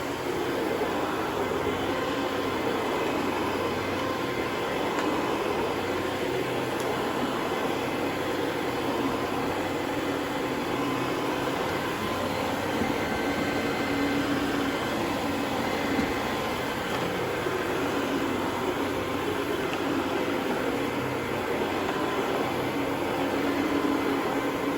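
Carpet-cleaning machinery running steadily: a continuous mechanical hum and rush with no breaks.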